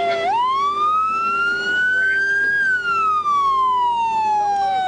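Police siren on a slow wail: the pitch climbs for about two and a half seconds, falls back down, then starts climbing again near the end. A steady lower tone runs beneath it.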